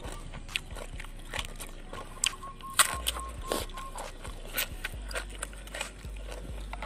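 Close-up mouth sounds of someone chewing raw vegetables: irregular wet crunches and clicks several times a second.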